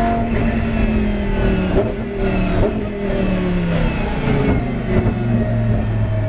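Lamborghini Huracán GT race car's 5.2-litre V10 engine, its revs falling for about four seconds as the car slows, with a step down in pitch, then holding a low, steady note near the end.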